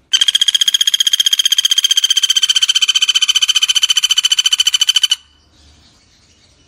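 Common flameback woodpecker (pelatuk bawang) giving a long rapid rattling call of about a dozen notes a second, steady and high in pitch. It lasts about five seconds and stops abruptly.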